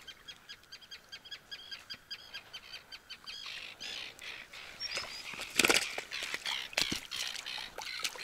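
A bird calling in a rapid, even series of short high chirps, about six a second, for the first three seconds. After that come irregular rustling and knocks, the loudest a little over halfway, with a few more short high chirps.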